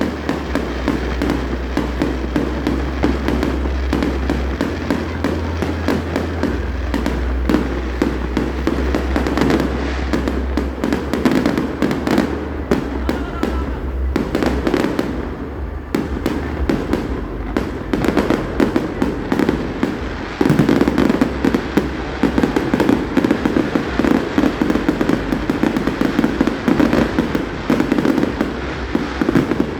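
Festival fireworks display: a dense, continuous barrage of bangs and crackles, growing a little louder about two-thirds of the way through.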